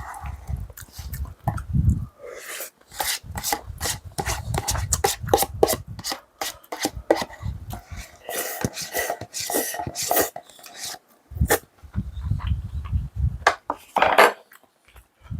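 Close-up eating sounds: utensils clicking and scraping against dishes, with many sharp clicks through the whole stretch, and dull low thumps of chewing in stretches.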